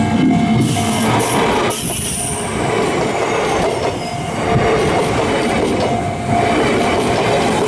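Kintetsu Minami-Osaka Line train passing over a level crossing, its wheels running over the rails with a high wheel squeal in the first two seconds.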